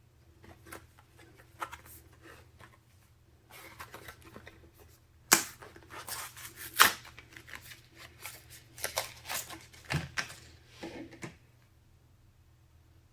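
Hands handling PC parts: scattered clicks, taps and rustles, busiest from about three and a half seconds in, with the sharpest clicks about five and seven seconds in.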